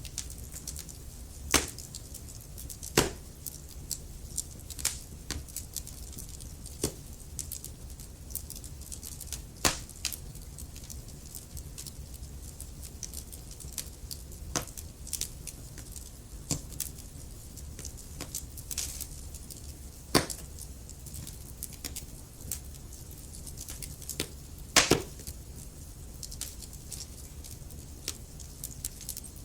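Wood fire burning in a fireplace: burning logs crackling with irregular sharp pops, a few louder snaps standing out over a low steady rumble of the flames.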